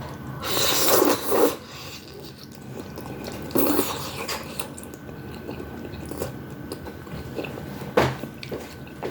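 Close-up eating of udon noodles with cabbage and meatballs: wet slurping and chewing. The loudest bursts come about a second in and again around three and a half seconds in, with a sharp click near the end.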